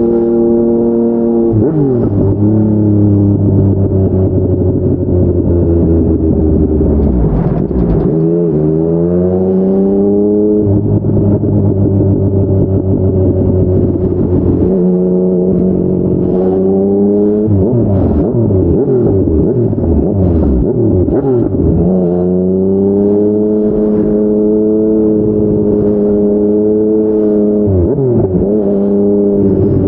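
Yamaha MT-09 three-cylinder engine through a Yoshimura R55 slip-on exhaust, ridden hard: the pitch climbs under acceleration and drops at each gear change, with a long stretch of falling revs on deceleration midway.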